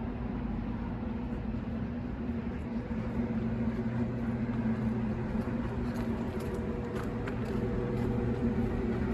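Steady low mechanical hum, a motor or engine running without change, over general street noise.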